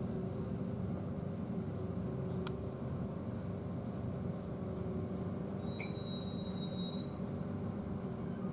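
Steady room noise of a restroom, a ventilation hum with a low drone. There is a faint click about two and a half seconds in, and faint high tones near the end that step up once in pitch.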